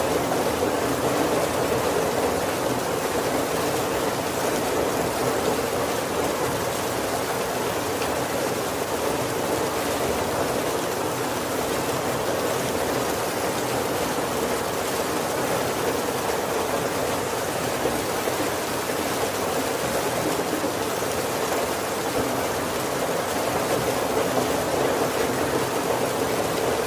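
Heavy rain falling steadily on a wooden roof, an even dense patter.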